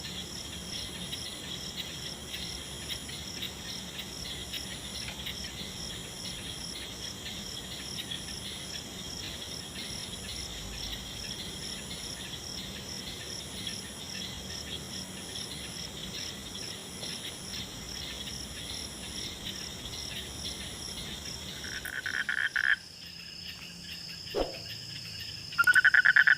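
Night insects, crickets, chirring steadily in high, evenly pulsing trills, with no frogs calling. Near the end the chirring cuts off abruptly, and a loud, rapidly pulsing call starts just before the end.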